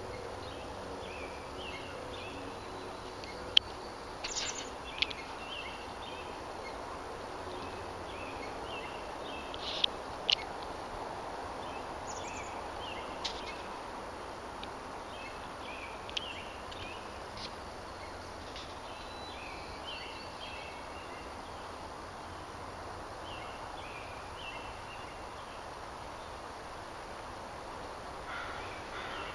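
Small birds chirping at intervals over a steady outdoor hiss, with a few sharp clicks, the loudest about three and a half seconds in and twice around ten seconds in.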